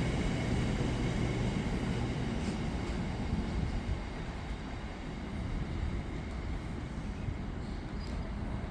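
Freight train of empty aggregate wagons rolling past on the main line: a steady rumble of wheels on rail that slowly fades, with a few faint clanks.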